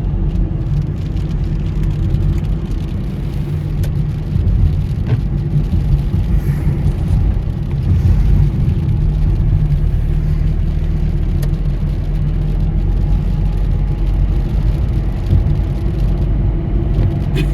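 A car driving on a rain-wet road: a steady rumble of engine and tyres, with a few faint clicks.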